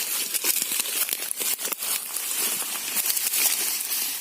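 Close rustling and crinkling, a dense run of quick irregular crackles, as something is handled right by the microphone.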